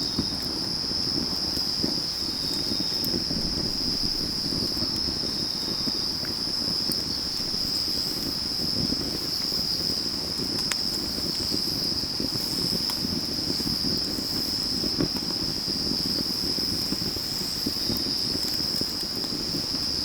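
A steady, high chorus of autumn night insects such as crickets, running without a break, over a burning wood fire that crackles, with a few sharp pops.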